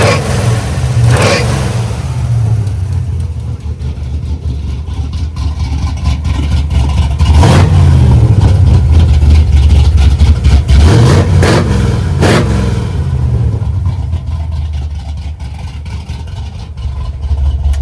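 Ford 460 big-block V8 in an F100 pickup running loud, blipped several times with pitch swings, including two quick blips close together near the middle. The engine has an exhaust leak, which the owner mentions.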